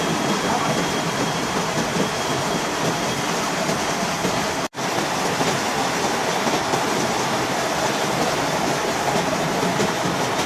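Gear hobbing machine running and cutting gear teeth in metal: a steady, dense mechanical clatter that cuts out for an instant about halfway through.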